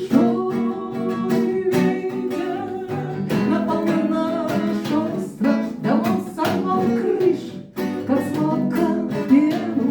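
A woman singing a song, accompanied by strummed acoustic guitar.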